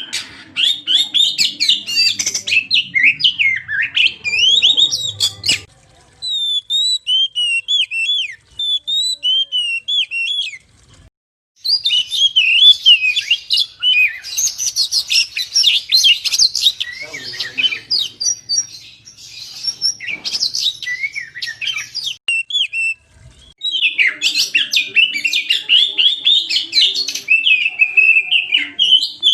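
Oriental magpie-robin (kacer) singing a fast, varied song of chirps, trills and whistles, in long stretches broken by a few short pauses.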